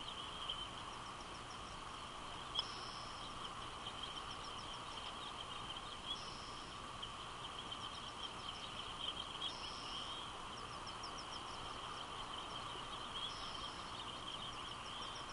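A bird repeating the same short, high phrase about every three and a half seconds: a brief held note followed by a quick run of ticking notes. Under it runs a steady outdoor hiss.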